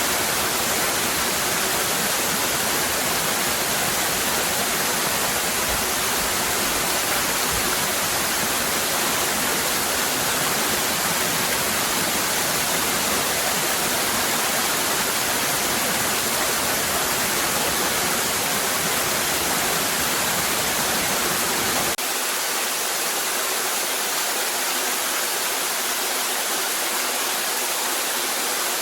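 Cascading waterfall rushing steadily. About 22 seconds in, the deep low rumble drops out abruptly while the rush of water carries on.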